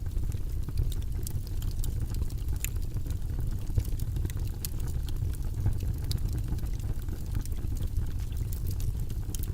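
Steady low, rumbling white-noise-style background sound with many small irregular clicks scattered through it.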